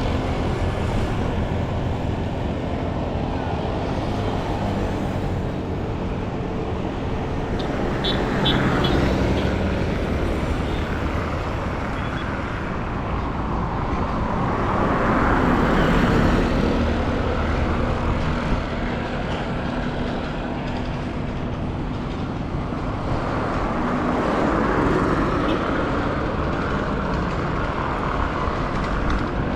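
Street traffic: a steady mix of motor vehicle engines and tyre noise. It swells about three times as vehicles pass close by.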